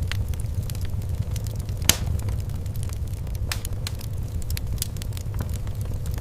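Fireplace wood fire crackling: irregular sharp pops and snaps over a steady low rumble, with one louder pop about two seconds in.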